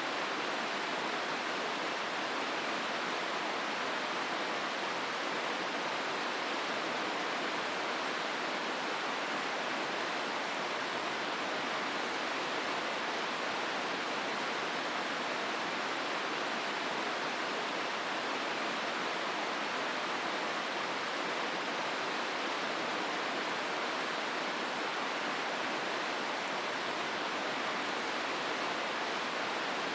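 Hozu River water rushing through the gorge in a steady, even rush with no breaks.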